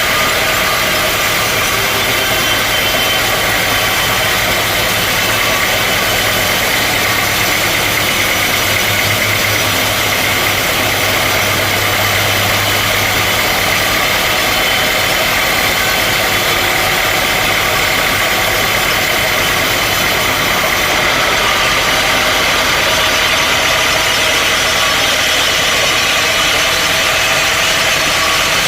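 Sawmill machinery running steadily with a loud mechanical drone. A low hum drops out about two-thirds of the way through.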